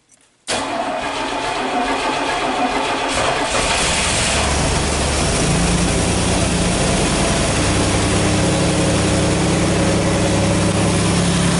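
1986 Pontiac Firebird's 2.8-litre fuel-injected V6 starting from cold and settling into a steady idle. The engine sound comes in suddenly about half a second in and runs roughly for a few seconds before evening out.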